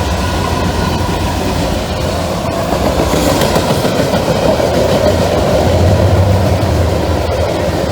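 Norfolk Southern freight train passing close by at speed: a steady low rumble with the wheels clicking over the track.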